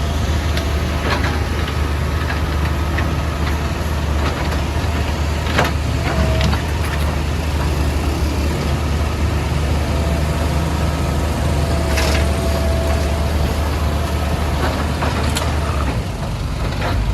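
Diesel engine of a CAT 462F backhoe loader running steadily at work, with a few sharp knocks and scrapes scattered through as the machine breaks up the road surface. The engine eases off briefly near the end.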